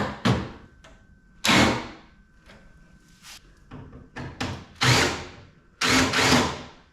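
A series of short clattering and scraping bursts of metal on the sheet-metal casing of a PTAC air conditioner being taken apart, the loudest three about a second in, near the middle and near the end. The work is at a screw that spins in place without coming out.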